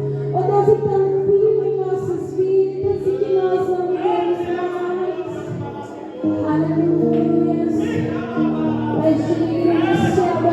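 Gospel worship music: sustained keyboard chords with voices singing over them, the chords changing about six seconds in.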